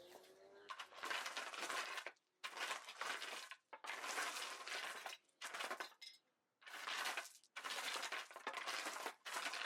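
A straight wooden board scraped back and forth over the loose patio base to level it, in about seven separate scraping strokes with short pauses between them.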